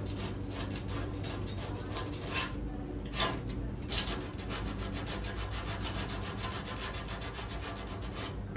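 Coarse 40- or 36-grit sandpaper rubbed by hand in repeated strokes over the painted steel of a 1955 Chevy truck's floor, scouring paint out of a groove the grinder can't reach so the metal is clean enough to weld.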